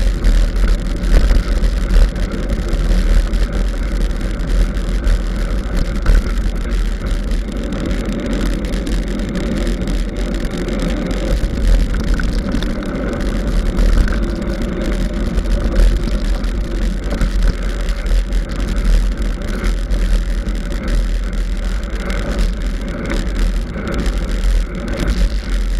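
Mountain bike ridden along a forest trail: wind buffeting the camera's microphone in a steady low rumble, over the uneven rolling and rattle of the bike on rough ground.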